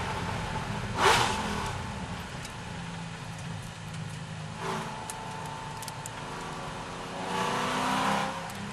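Chevrolet Corvette C6 V8 engine running hard at racing speed, with a sharp crack about a second in and the engine note swelling again near the end.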